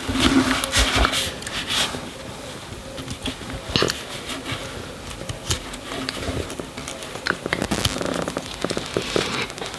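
Hands working a small plastic toy doll and its tiny clothes, making scattered clicks, taps and light rustling as the clothes are pushed on.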